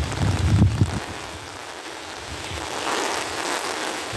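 Rain falling on a wet road, a steady hiss that grows a little louder about three seconds in. Wind rumbles on the microphone for about the first second.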